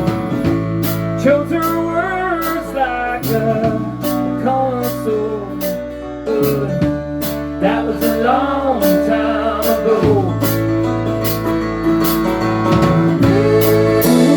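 Live band playing a song: guitars and bass over a steady drum beat, with a gliding melodic lead line weaving over it.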